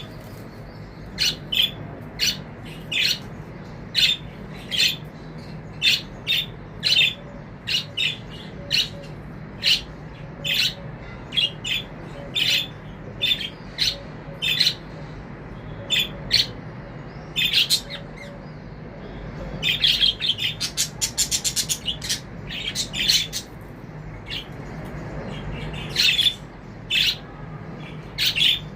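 Pet budgerigars chirping: short, sharp, high calls repeated about every half second, with a quick rapid run of chirps about twenty seconds in.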